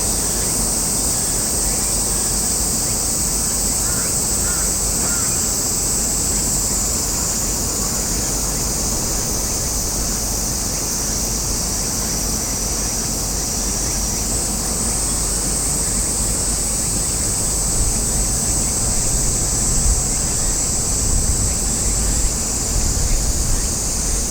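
Cicadas droning steadily in a high, shifting chorus. Under it, wind rumbles on the microphone and gusts harder in the last few seconds.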